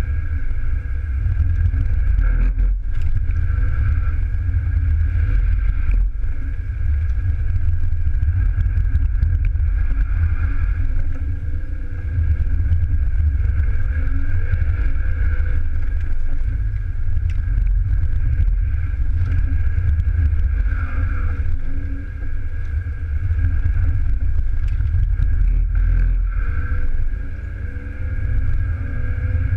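BMW E36 320's straight-six engine pulling hard under load, heard from inside the cabin, with a steady deep rumble and a few brief dips in level.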